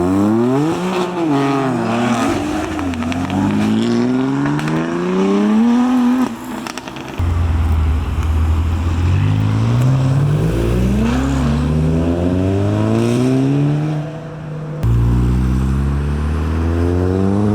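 Car engines accelerating as they pull away past, each climbing in pitch through the revs, in several clips joined by abrupt cuts; the first is a BMW M2's turbocharged straight-six.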